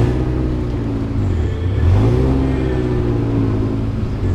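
Honda Civic's engine revving as the car drives in reverse, the pitch rising once at the start and again about two seconds in, then holding steady.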